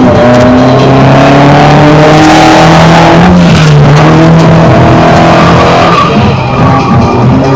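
Drift car's engine held at high revs through a slide, its pitch dipping and rising a little as the throttle is worked, with the tyres squealing and skidding.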